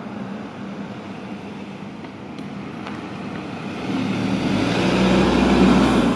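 Porsche Macan's 2-litre four-cylinder petrol engine running as the SUV drives past, with tyre and road noise; the engine note swells from about two-thirds of the way in, loudest near the end.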